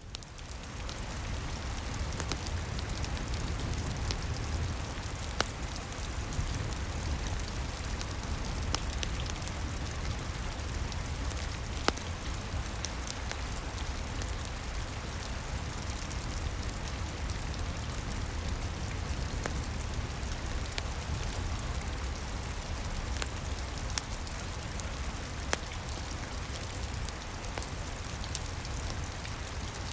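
Steady rain with a deep low rumble, fading in over the first second or two, with a few sharp pops of a crackling wood fire scattered through it.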